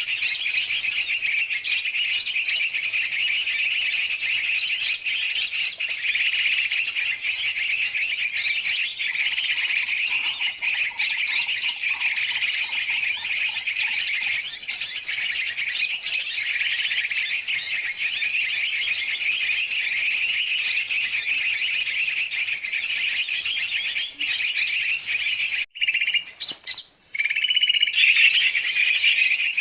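A bird-lure recording of many small birds chattering and calling over one another in a dense, noisy chorus. It cuts out briefly for about a second near the end, then resumes.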